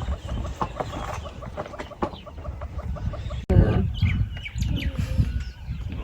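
Ground birds calling in a rapid series of short, clucking notes. About three and a half seconds in the sound breaks off abruptly, and a low rumble with scattered short chirps follows.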